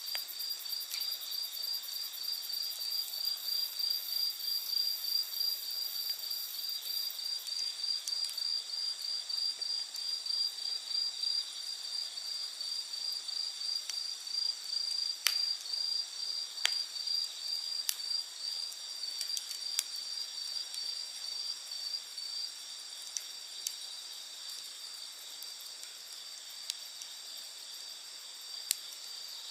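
Night insects chirping in a fast, even pulse over a steady high trill; the pulsing fades out a little past two-thirds of the way through. Wood in a campfire gives scattered sharp crackles and pops.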